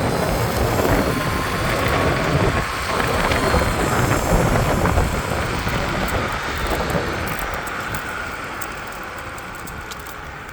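A motor running with a rough crunching, clicking noise, the sign of the fault behind its sagging power. The noise eases off gradually over the second half.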